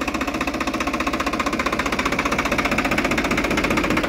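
Swaraj 744 FE tractor's three-cylinder diesel engine running steadily, with an even, rapid diesel beat.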